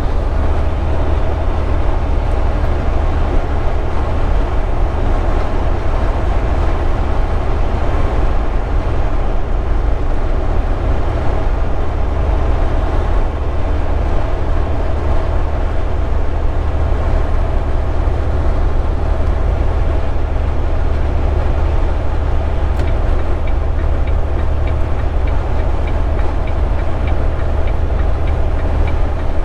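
Steady low rumble of a semi truck's diesel engine and road noise inside the cab at highway speed.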